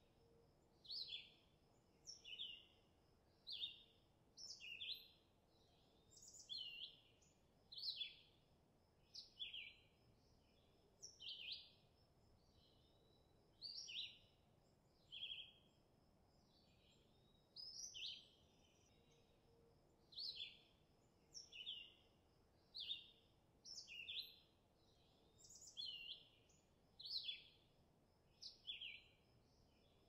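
A bird chirping over and over, short sweeping calls coming about once a second, often in quick pairs, over a faint steady background.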